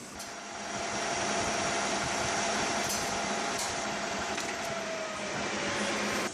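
Metal lathe turning a metal blank: a steady cutting noise with a faint tone that drifts slightly lower near the end, and a few light clicks. The noise cuts off suddenly at the end.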